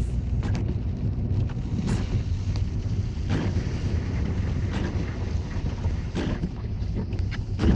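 Strong storm wind gusting hard and buffeting the microphone with a heavy, continuous low rumble, with scattered short clicks and rattles.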